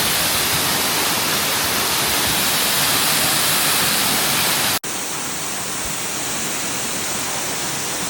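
Waterfall rushing, a loud steady noise. A little under five seconds in, it cuts off abruptly and a similar, slightly quieter steady rush resumes.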